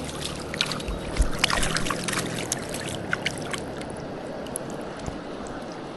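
Shallow river water rushing steadily, with a cluster of small splashes and clicks in the first few seconds that thin out after that.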